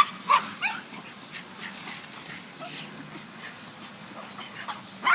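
Dogs whining and yipping: a few short yips at the start, quieter whimpering between, and one louder yip near the end.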